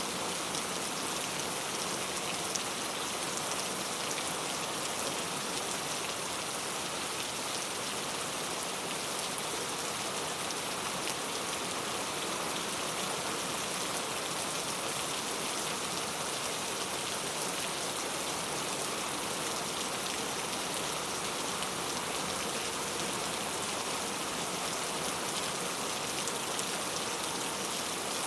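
Heavy rain falling steadily on urban street surfaces, a dense even hiss of drops with fine pattering.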